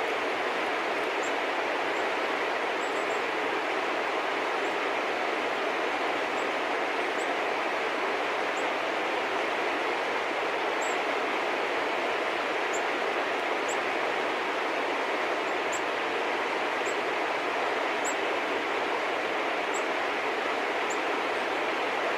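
Small birds giving brief, very high, thin chirps every second or so over a steady rushing background noise.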